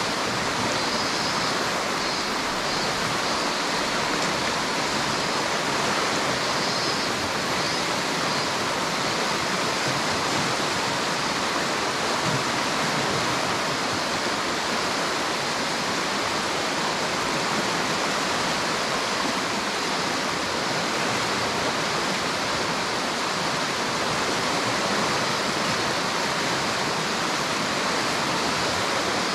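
River water flowing and rushing with a steady, unbroken sound.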